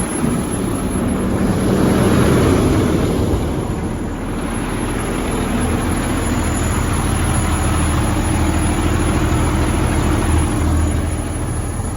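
Semi truck's diesel engine idling steadily, a low even drone.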